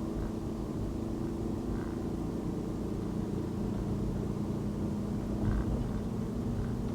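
Car driving on a city road: a steady low road rumble with an even engine hum, whose pitch shifts slightly about halfway through.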